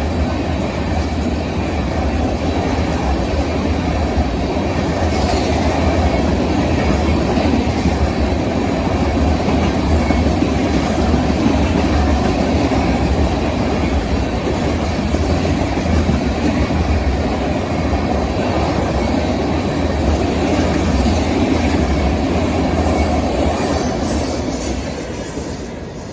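A train rolling past on the rails: a steady, loud rumble of wheels and cars that begins to fade in the last couple of seconds.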